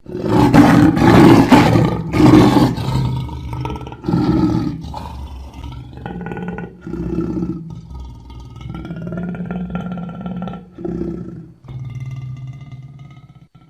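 Lion roaring: a sudden, loud opening of long roars, then a run of shorter grunting calls that grow fainter toward the end.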